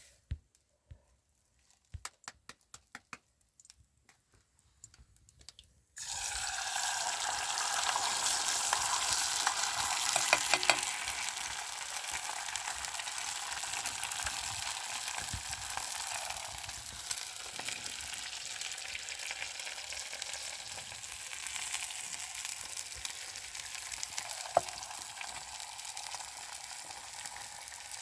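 A few light clicks, then about six seconds in, food hitting hot oil and frying with a sudden, steady sizzle that continues.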